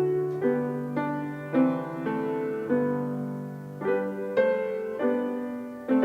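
Piano playing a slow offertory piece, notes and chords struck about once or twice a second and left to ring and fade.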